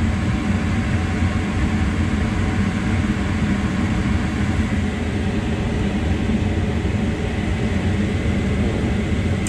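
Amana Air Command 80 gas furnace running with its burners lit and its circulating blower on, a steady low rush with a faint thin whine above it. The blower has come on after the control board's warm-up timer delay, the normal step in the heating sequence.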